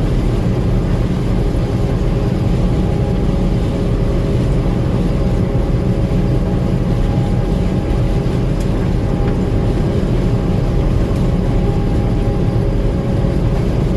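Gleaner M2 combine running steadily with its engine and machinery under way, a low engine drone with a faint steady whine above it that fades out near the end.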